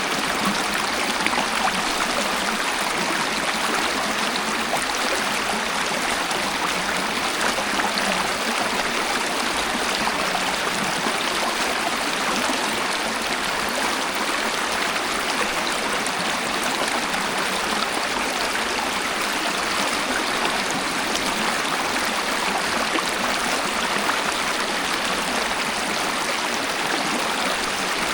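A waterfall: a steady, unbroken rush and splash of falling water, with little deep rumble.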